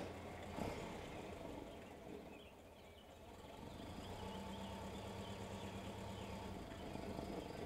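1919 Chevrolet 490's overhead-valve four-cylinder engine running as the car drives slowly closer: faint at first, with a steady tone growing louder from about four seconds in. A soft knock just after the start and faint bird chirps.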